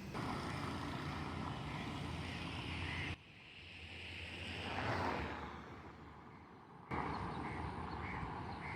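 Outdoor canal-side ambience: a steady rush, most likely the canal's flowing water, with a short high chirp repeating about twice a second. It is broken by an abrupt cut to a vehicle passing, which swells and fades, before the steady rush cuts back in near the end.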